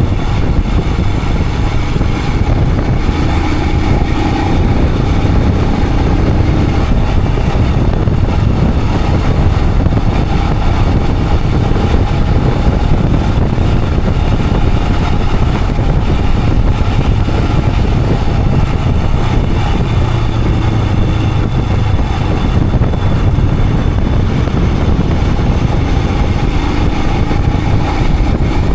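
Royal Enfield Himalayan 411's single-cylinder engine running steadily as the motorcycle is ridden along the road.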